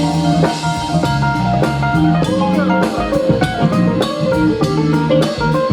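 Live band playing an instrumental passage of a pop song: electric guitar lines over a drum kit.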